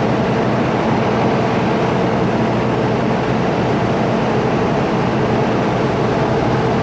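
Steady, loud rumble of a large vehicle's engine running, with a constant low hum.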